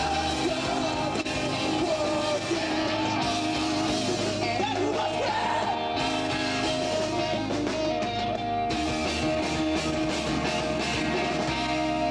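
Emo rock band playing live, with electric guitars and a singing voice.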